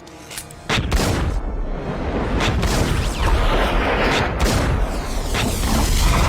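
Action-film soundtrack: about a second in, heavy gunfire and booms break out over music, dense and continuous.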